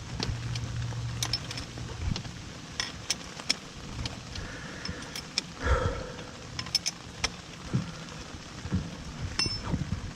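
Rain falling, with scattered sharp clicks and taps throughout and one louder knock about halfway through. A low steady hum in the first two seconds stops.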